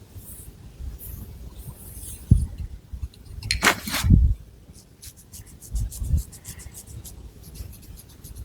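Long fingernails scratching and rubbing through thick long hair and over the scalp, close to the microphone, with soft low thuds from hand contact. A louder scrape comes about three and a half seconds in, and a quick run of fine ticks follows later on.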